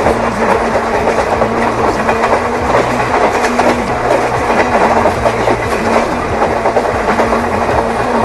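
Train running on rails with a steady clickety-clack of wheels over the joints, under sustained low tones that shift in pitch every second or so.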